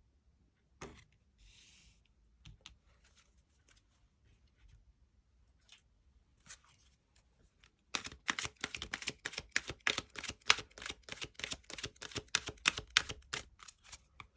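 Tarot cards being handled: a few light taps and a brief soft slide of cards, then, about eight seconds in, the deck is shuffled by hand in a dense, rapid run of card snaps and clicks.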